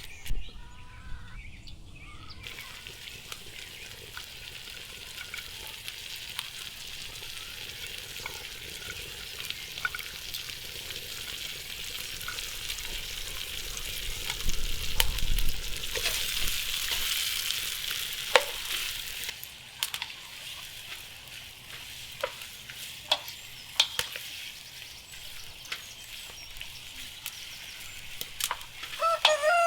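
Food sizzling as it fries, with occasional sharp clicks and scrapes of a stirring utensil; the sizzle grows louder in the middle. A rooster starts crowing at the very end.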